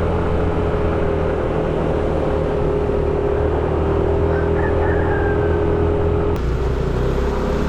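Moped engine running steadily while riding, its note shifting about six and a half seconds in.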